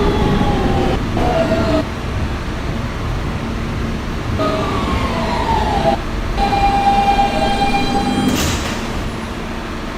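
Kawasaki R160B subway car with Siemens traction motors whining as it brakes into a station, the pitch falling in two stages, then holding a steady tone. A short hiss follows near the end.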